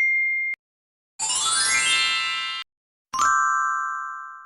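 Three short sound effects in a row: a brief high beep, a rising sweep of bright chiming tones, then a single bell-like ding that rings and fades away.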